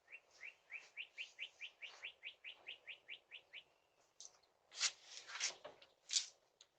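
A bird calling faintly, a quick run of short rising chirps at about four a second that stops about three and a half seconds in. A few brief noisy sounds follow near the end.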